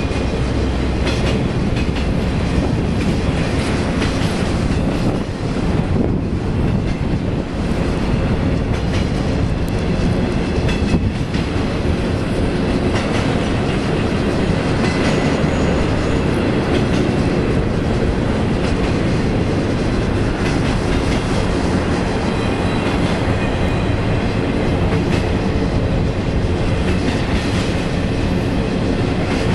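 Empty intermodal cars of a BNSF freight train rolling past upgrade: a steady, continuous noise of wheels on the rails.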